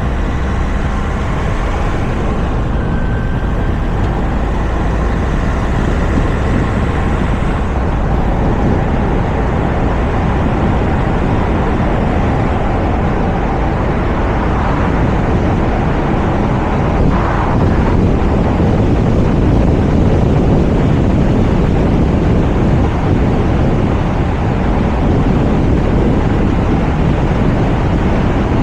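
Steady rush of wind and road noise from a Toyota RAV4 driving along, heard through a camera microphone mounted on its roof, with a faint engine hum in the first few seconds.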